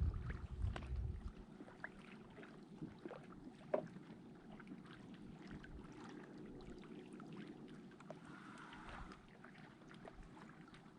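Light water sounds and scattered small clicks and ticks around a kayak hull on the water. A gust of wind rumbles on the microphone for about the first second.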